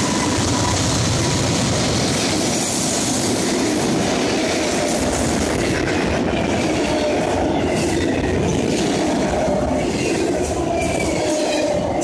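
Autorack freight cars rolling past close by: a loud, steady noise of steel wheels on rail, with a thin wheel squeal coming and going in the second half.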